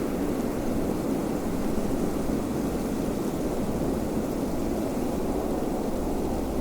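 Steady wind blowing: an even, low rushing with no single gust standing out.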